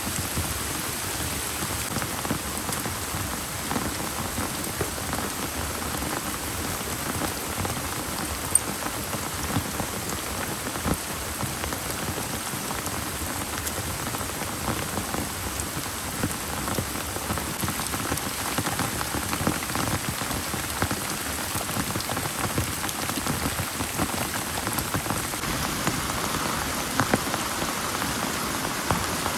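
Heavy rain pouring steadily, a dense patter of drops hitting a surface, with scattered louder single drip hits.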